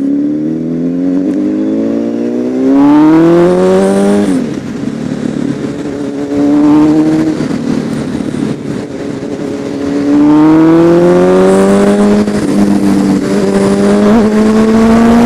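Honda CBR1000RR Fireblade's inline-four engine accelerating through the gears under throttle. The pitch climbs for about four seconds and drops at a shift, then climbs again later and holds high.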